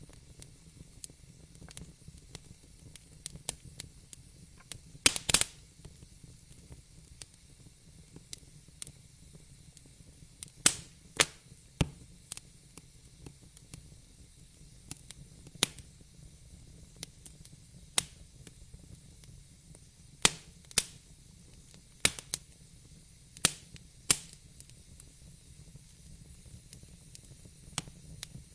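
Wood fire crackling, with sharp irregular pops and snaps over a low hiss; a cluster of loud pops about five seconds in and more around the middle.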